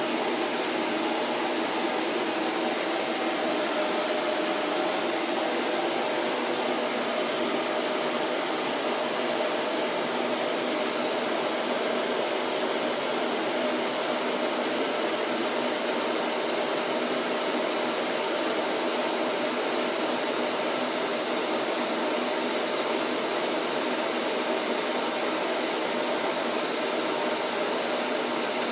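Vacuum cleaner running steadily: an even, unbroken motor and airflow noise with a faint hum.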